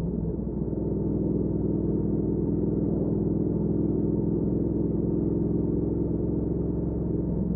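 2019 Triumph Speed Twin's 1200 cc parallel-twin engine running steadily under way through a Weslake Shorty Pro exhaust, its note shifting slightly about a second in.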